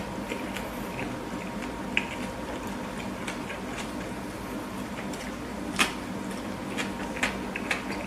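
Close-miked chewing of a burger: scattered wet mouth clicks and soft crunches, with sharper ones about two seconds in, around six seconds, and a few near the end.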